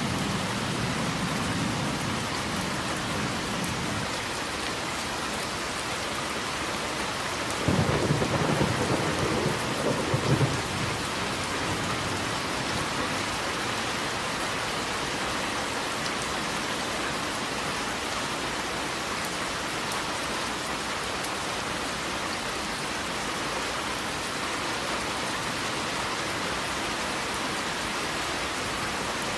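Steady heavy rain. A low thunder rumble fades away over the first few seconds, and a louder clap of thunder rolls about eight seconds in, lasting roughly three seconds.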